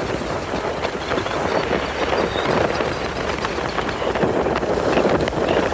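Skis or a board sliding fast down a snow slope, edges scraping and chattering steadily over the snow.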